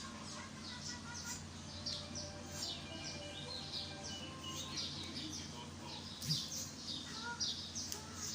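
Small birds chirping: many short, quick down-slurred chirps, several a second, over a steady low hum. One sharp click about six seconds in.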